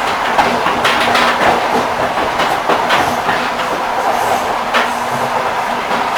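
Railway carriage wheels clicking over rail joints on a moving train: a steady rolling rumble with sharp knocks that come in small irregular groups.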